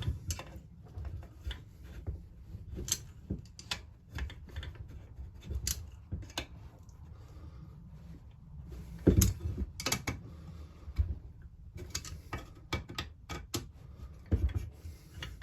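Hand tools clicking and knocking against a Husqvarna 346XP chainsaw's metal crankcase as the case bolts are tightened. The metallic clicks are scattered and irregular, with a louder knock about nine seconds in.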